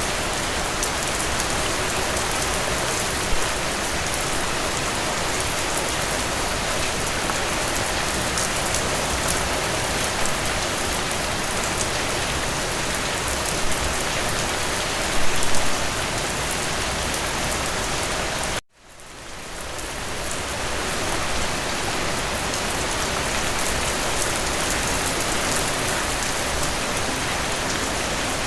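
Steady rain falling, an even hiss of rainfall with a few brief louder moments. About 19 s in, the sound cuts out abruptly and fades back up over a couple of seconds.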